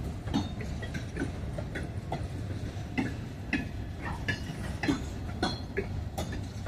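Freight train rolling slowly past, a steady low rumble with irregular clicks and clanks from the wheels and cars.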